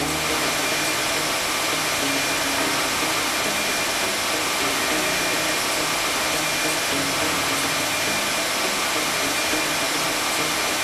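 Miele vacuum cleaner running steadily: an even airy rush with a faint steady high whine.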